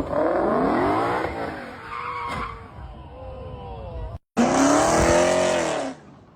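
Car engines revving hard, pitch rising and falling, with tyres squealing as cars pull away. It comes as two separate bursts: a brief break about four seconds in, then a louder stretch of revving and tyre squeal that cuts off abruptly near the end.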